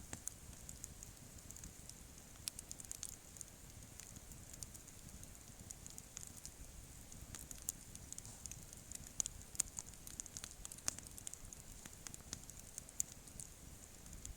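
Wood campfire crackling: irregular sharp pops and snaps over a faint steady hiss, with a few louder pops around the middle.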